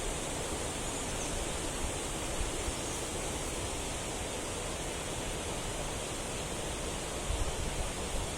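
Steady rushing of a mountain stream, an even hiss of running water, with a couple of brief low thumps near the end.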